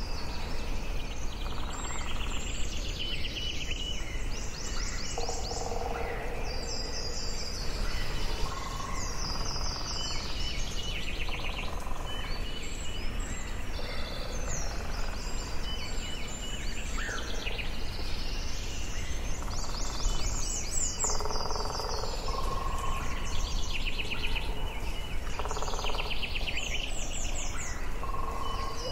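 Forest ambience: several birds singing and calling at once, with repeated quick high trills and lower short notes, over steady low background noise.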